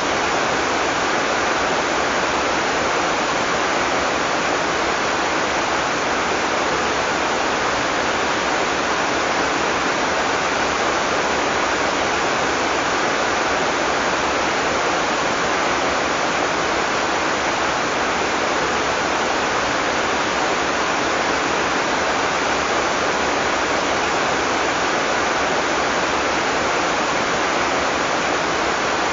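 Heavy rain pouring steadily, a dense even hiss with no thunder.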